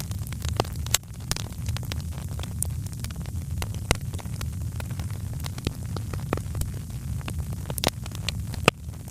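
Wood fire crackling in a fireplace: frequent sharp pops and snaps, a few louder ones, over a steady low rumble of burning.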